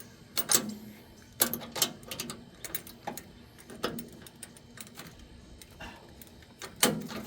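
Irregular light clicks and knocks of hand tools and small metal parts, about half a dozen spread over several seconds, while a screw is being fitted into a stripped hole.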